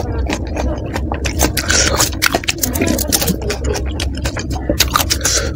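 Close-miked crunching and wet chewing of a pani puri (golgappa) topped with a green chilli: a dense run of crisp crackles over a steady low hum.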